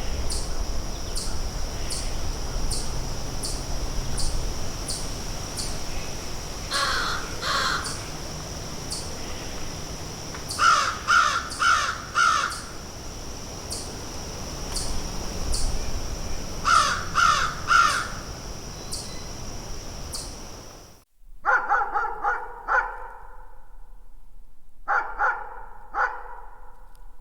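Crows cawing in short runs of two to four calls over a steady, high, evenly pulsing buzz. About three-quarters of the way through, this cuts off abruptly and a dog barks in the distance, in short bursts of several barks, each with an echoing tail.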